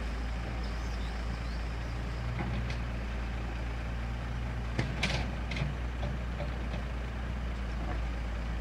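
Scania P114 truck's 11-litre six-cylinder diesel engine running steadily at low revs, a low even hum. A few short clicks about five seconds in.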